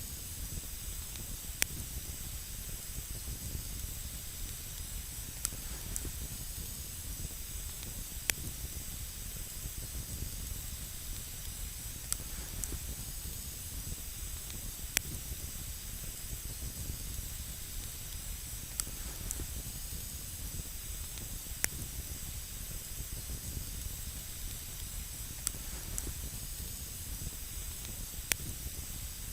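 Wood campfire burning with a steady hiss, broken by sharp single crackles about every three seconds.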